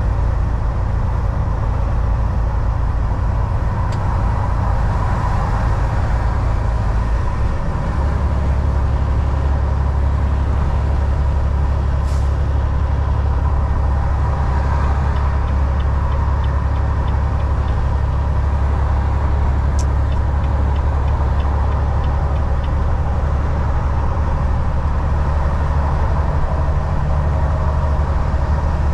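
Volvo VNL 760 semi truck's diesel engine droning steadily at road speed under a constant wash of tyre and road noise; the engine note steps lower about seven seconds in. A couple of brief sharp clicks and some faint light ticking sit over the drone.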